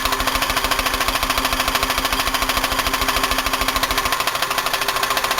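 Buick 3800 V6 engine running rough with a rapid, steady knocking and a booming from the open oil fill opening, where exhaust gas is puffing out of the crankcase. The knock is one the owner cannot pin down between a spun bearing, collapsed lifter or rod knock, in an engine he considers trashed.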